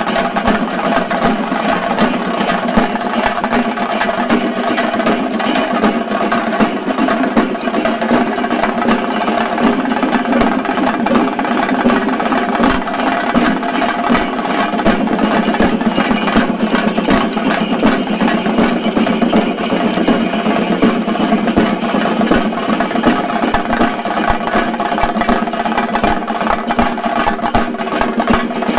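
Chenda drum ensemble playing shinkari melam, a dense, fast, unbroken roll of drum strokes that stays loud throughout.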